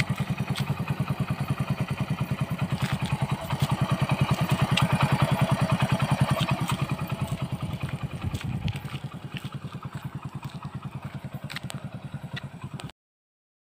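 Motorcycle engine idling with a rapid, even beat of exhaust pulses. It swells louder for a few seconds midway, then settles back, and cuts off suddenly near the end.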